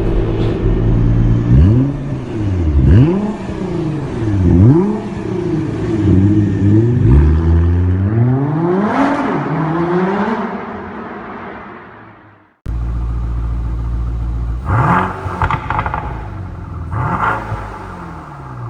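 Mercedes-Benz W222 S560's twin-turbo V8 through an Underground Exhaust aftermarket system, free-revved several times, its pitch rising and falling. After a short break in the sound about twelve seconds in, it idles with two quick rev blips.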